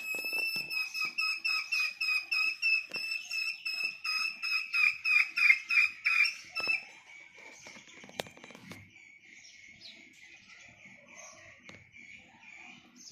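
A bird's rapid run of high, whistle-like call notes, about four a second, growing louder and then stopping about seven seconds in. A fainter steady high tone continues after it.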